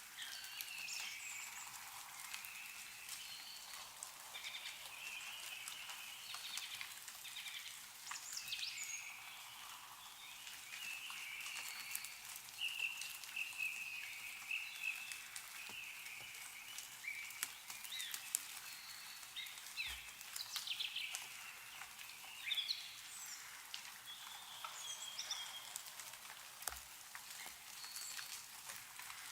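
Melting snow dripping from trees in scattered, irregular drops, with small birds chirping and calling throughout. Two brief soft low thumps come about two-thirds of the way in and near the end.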